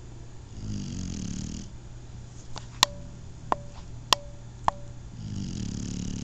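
Shar-Pei puppy snoring in its sleep: two long snoring breaths, one near the start and one near the end. Between them come four sharp clicks in about two seconds, each leaving a brief ringing tone.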